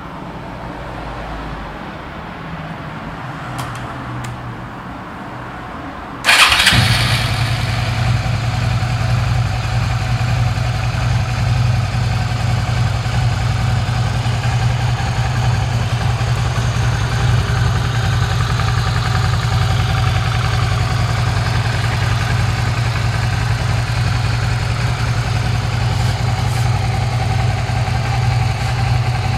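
Carburetted Suzuki SV motorcycle's V-twin engine starting: a few seconds of quieter sound with a couple of clicks, then the engine catches suddenly about six seconds in and settles into a steady idle.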